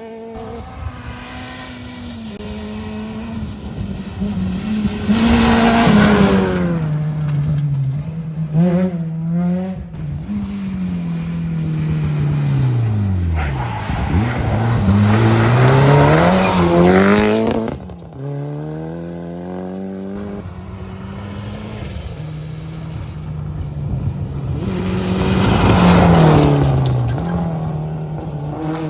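Rally cars at full speed: engines revving hard, pitch climbing and dropping sharply with each gear change and lift. There are three loud passes about ten seconds apart.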